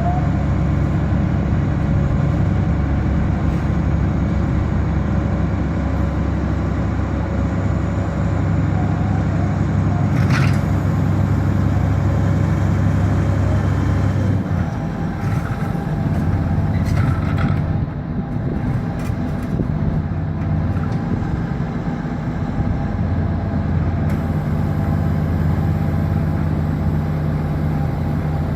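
Wirtgen W 100 F cold milling machine's Cummins QSC 8.3 six-cylinder diesel running steadily. About halfway through, the engine note changes and the level drops a little.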